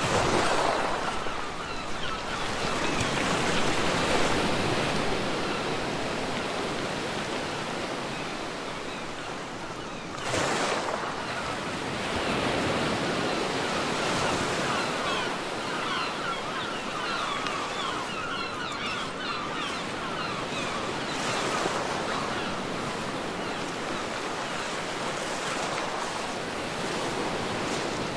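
Sea waves breaking on a beach, the surf washing in and out steadily, with a wave breaking at the start and another about ten seconds in.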